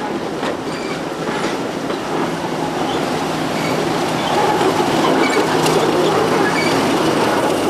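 Diesel train passing, its wheels clicking over the rail joints, growing louder over the first few seconds, with a steady low engine hum beneath.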